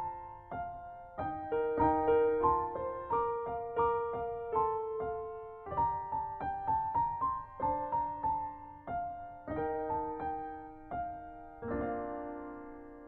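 Gentle solo piano background music: a slow melody of single notes over broken chords, ending on a held chord that fades away near the end.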